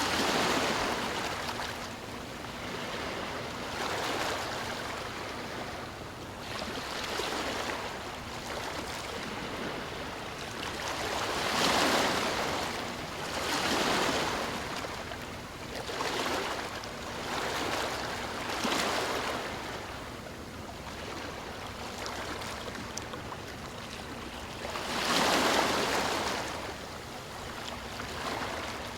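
Ocean waves breaking and washing up on a shore, in repeated swells every few seconds, the loudest about 12 s in and again near 26 s in.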